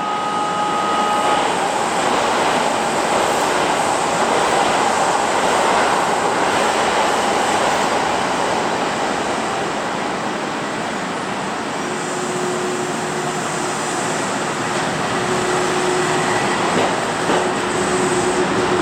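Kintetsu 20000 series 'Rakuzo' train running on the rails: a steady rumble and hiss of wheels and running gear. A steady low hum joins in about two-thirds of the way through.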